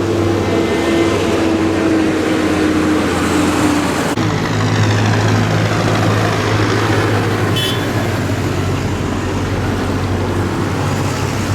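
Tractor engines running as a procession of tractors passes, a steady low hum with one engine's tone slowly falling in pitch over the first few seconds. A short high squeak comes a little past halfway.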